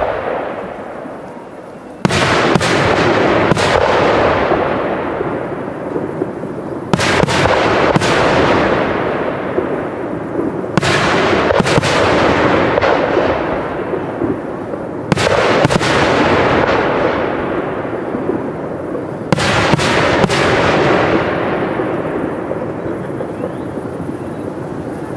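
Aerial firework shells bursting in five volleys about every four seconds. Each volley is two or three sharp bangs in quick succession, and each is followed by a long fading tail of sound.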